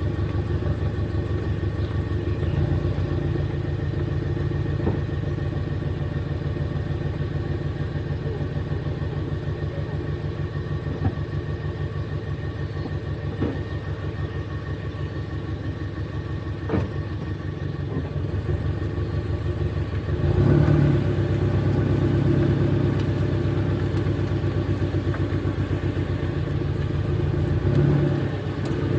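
Toyota GT86's flat-four engine idling through a Blitz Nur Spec R aftermarket exhaust, a steady low pulsing note. About twenty seconds in it grows louder and stays up, with another short rise near the end.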